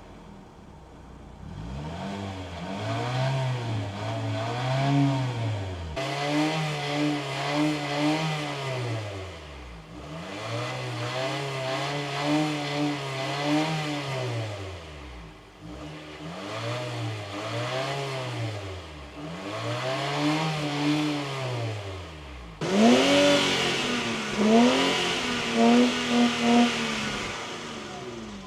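Infiniti car engines revved while stationary, heard through the exhaust: repeated rev blips that climb and fall back, some held briefly at the top. About 22 seconds in, a louder car takes over with quicker, sharper blips.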